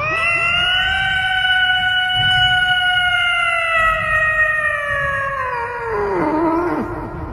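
One long howl, held on a nearly steady pitch for about six seconds, then falling and wavering near the end.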